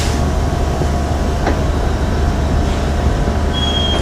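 Semi truck's diesel engine running steadily with a low rumble. A faint click about a second and a half in, and a brief thin high whistle near the end.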